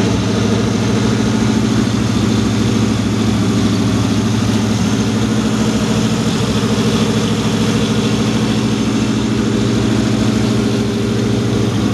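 1976 Pontiac Trans Am SE's V8 engine running steadily with an even exhaust pulse, held at a constant speed during its first run-in after start-up.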